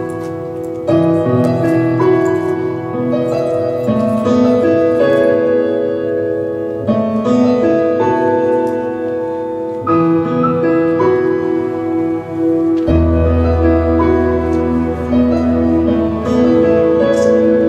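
Slow piano or keyboard music of held chords that change every second or two, with a deep bass note coming in about three quarters of the way through.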